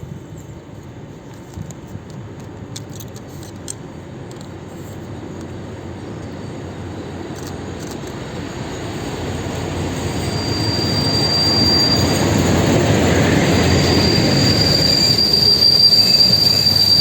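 A diesel-hauled passenger train, led by SU45 and SU46 class locomotives, approaching and passing close, growing steadily louder. A steady high-pitched wheel squeal sets in about halfway and is strongest near the end.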